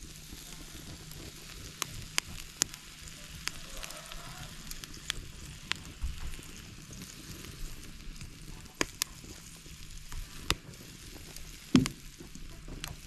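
Clam meat frying in a pan: a steady sizzle with frequent sharp pops and crackles, the loudest pop about twelve seconds in.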